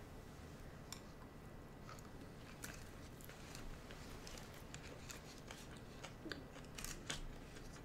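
Faint chewing of sushi, with scattered soft clicks as pieces are picked up and eaten.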